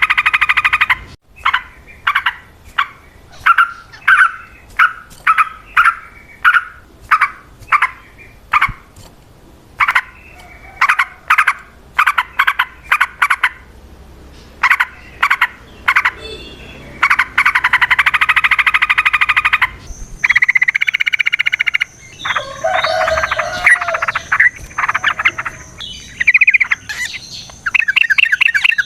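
Yellow-vented bulbul (trucukan) calling: loud, rapid chattering runs, then a string of short notes about two a second, then more varied bubbling song in the last third.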